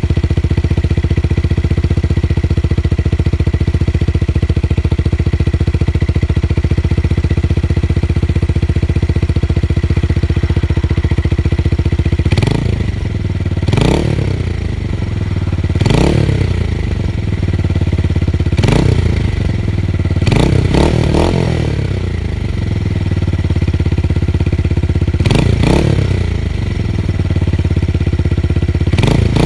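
Tuned motorcycle engine idling steadily with a deep bass note, then, from about halfway through, revved in a series of short throttle blips, each rising and falling back to idle, about seven or eight times.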